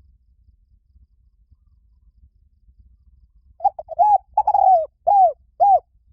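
Spotted dove cooing: one phrase of about six short arched coos in quick succession, starting about three and a half seconds in.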